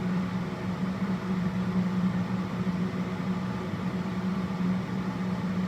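Steady mechanical hum of food-truck machinery running, with one low, even drone.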